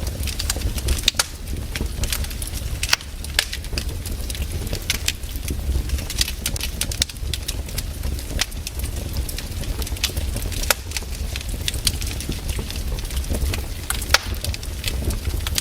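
Wood fire in a fireplace crackling, with irregular sharp pops over a steady low rumble of the burning fire.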